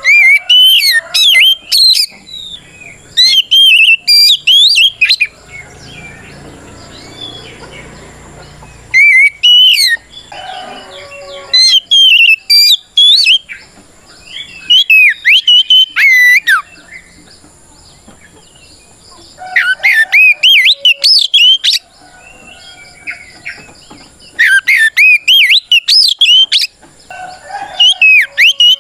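Oriental magpie-robin (kacer) singing a loud, clear whistled song in repeated bursts of one to two seconds with short pauses between them, its notes swooping up and down. This is the full-voiced challenge song that calls out rival males.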